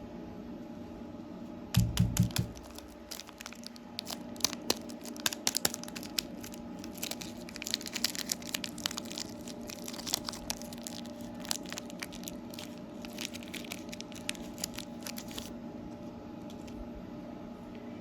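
A plastic candy wrapper is torn open and crinkled by hand. It starts with a low thump about two seconds in, followed by a long run of sharp crackles that stop a few seconds before the end, over a steady background hum.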